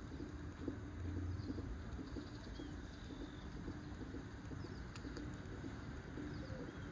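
Outdoor ambience: a steady low rumble and hiss, with a few faint, short high bird calls.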